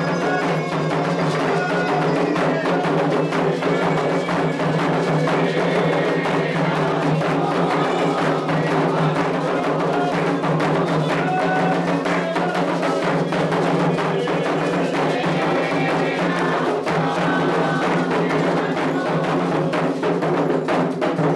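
Candomblé ritual drumming on atabaque hand drums: a fast, dense rhythm of sharp strikes.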